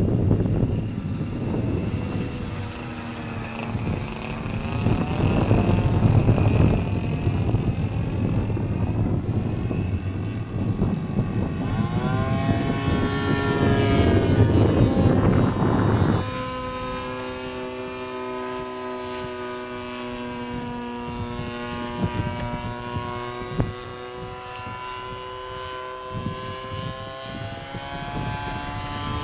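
Turnigy 30cc two-stroke gas engine of a radio-controlled Yak-54 model aerobatic plane in flight, its pitch rising and falling as the plane manoeuvres and passes. For the first half a heavy rumble buffets the microphone; about 16 s in the engine note becomes quieter and steadier.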